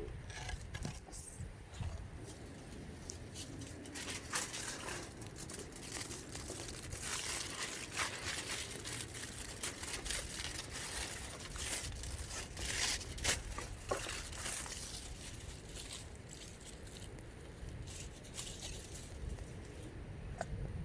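Newly lit campfire crackling and popping irregularly, with a run of denser crackles in the middle.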